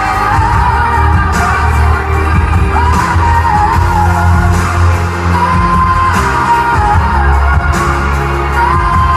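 Live pop song performed in concert: a woman's lead vocal holding long sung notes over loud bass and drums.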